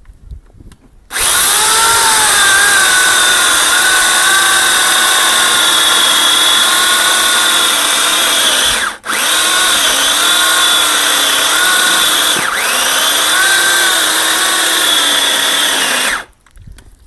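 Harbor Freight 14-inch electric chainsaw running through a large log: its motor whine starts about a second in and dips and wavers in pitch as the chain bites into the wood. It cuts out for a moment near the middle, starts again, and stops shortly before the end.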